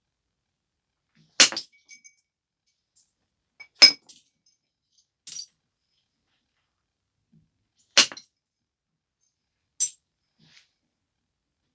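Stone biface being knapped: sharp clicking snaps as flakes come off the edge, three loud ones spaced a few seconds apart with two lighter ones between.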